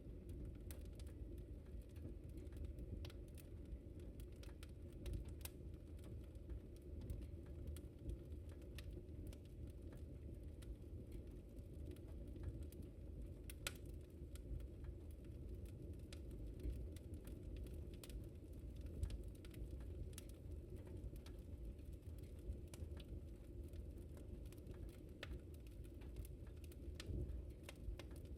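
Wood fire crackling in a fireplace: many small, irregular pops and snaps over a low, steady rumble of the flames.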